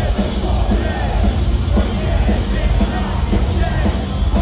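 Metalcore band playing live at full volume: a dense wall of distorted guitars and bass, a steady pounding drum beat, and vocals over the top.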